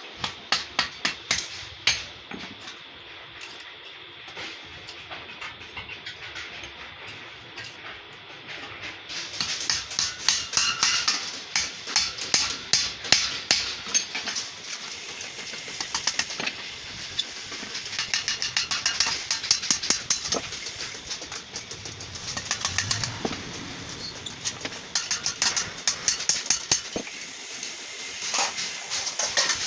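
Hammer blows on sheet metal, sharp ringing strikes in quick runs: a few spaced hits at first, then denser and louder hammering from about a third of the way in.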